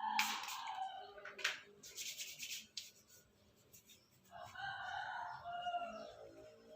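Rustling and handling noise with scattered light clicks over the first few seconds. In the second half comes a single long bird call lasting about two seconds.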